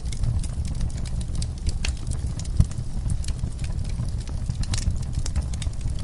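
Wood fire crackling in a fireplace: scattered sharp pops and snaps over a steady low rumble, with one louder low knock about two and a half seconds in.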